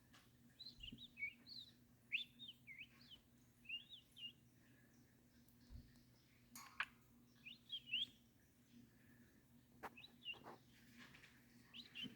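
A pet bird chirping: quick runs of short, twisting high chirps in several groups, with pauses of a second or two between them, and a couple of sharp clicks.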